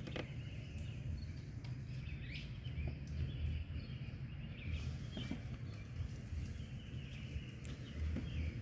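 Outdoor garden ambience: a low, uneven rumble with a few faint bird chirps and scattered light clicks.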